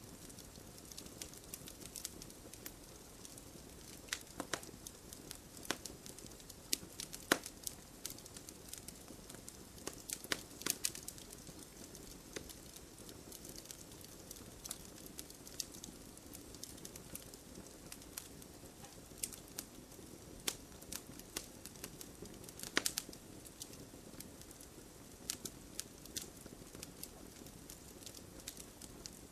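Campfire burning: irregular crackles and sharp pops of wood over a low steady hiss, with a few louder pops.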